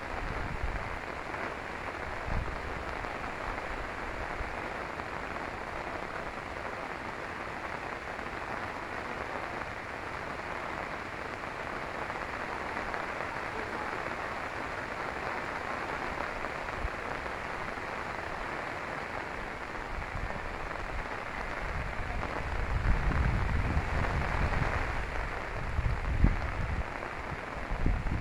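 Rain falling steadily on a river, a constant even hiss. In the last several seconds gusts of wind start buffeting the microphone with low rumbles.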